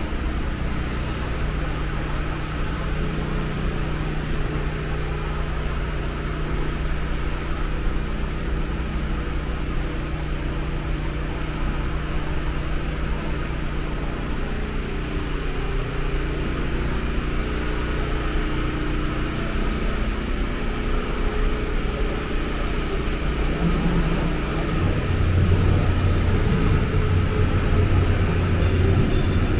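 MetroLink light-rail train approaching the station: a steady low hum and rumble that grows louder over the last few seconds, with a few high squeaks near the end as it comes in.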